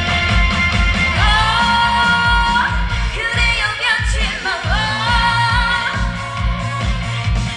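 A woman singing a trot song live through a PA over loud accompaniment with a steady beat; she comes in with long held notes about a second in.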